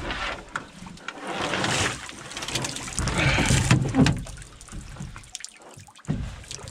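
Water splashing and sloshing in several bursts around a canoe, with a few knocks, as the canoe is brought to shore and a paddler climbs out into the shallows.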